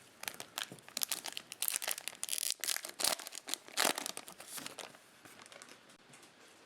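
Plastic cello-pack wrapper of a Topps Chrome baseball card pack being torn open and crinkled, a run of sharp crackles that dies away about five seconds in.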